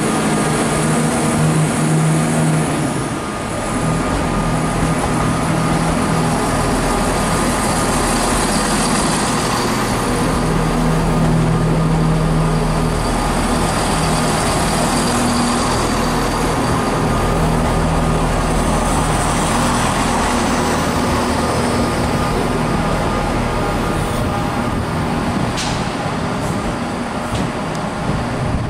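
A train at the station platform: a steady, loud drone with low rumble, and a single short clank near the end.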